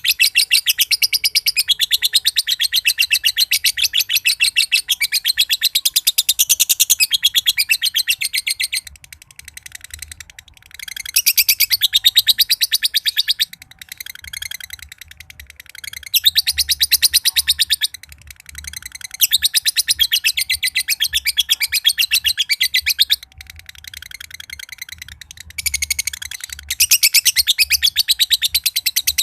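Green (josan) male lovebird giving its long ngekek song: a fast, shrill chattering trill held for several seconds at a time, broken by short pauses.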